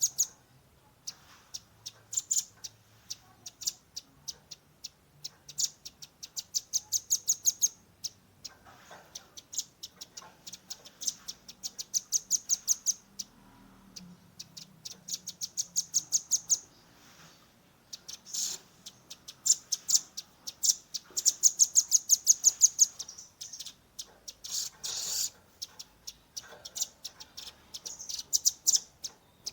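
Velvet-fronted nuthatch (red-billed nuthatch) giving its rapid 'shooting' call: fast trains of sharp, high chipping notes, each run lasting a second or two, repeated with short pauses.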